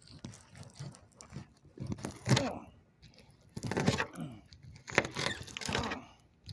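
Knife cutting off a small fish's head, crunching and cracking through the bone in several rough bursts.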